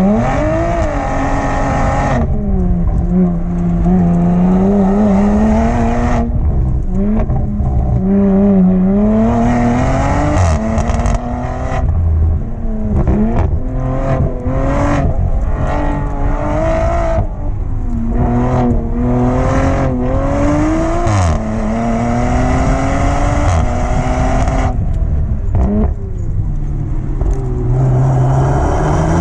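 Audi TT race car's engine driven hard through a hillclimb run, its pitch repeatedly climbing under acceleration, then falling away with gear changes and lifts, with brief breaks in the note.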